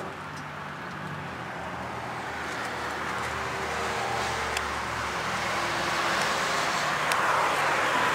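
Motor vehicle noise: a steady rumble and hiss that grows gradually louder.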